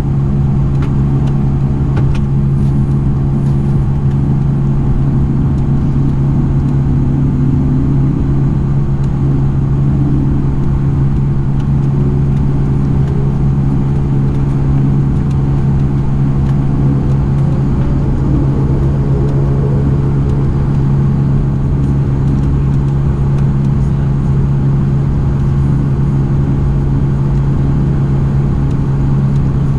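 Dash 8-400 (Q400) turboprop's PW150A engines and six-blade propellers droning steadily, heard inside the passenger cabin, with a low rumble under a strong, even propeller hum.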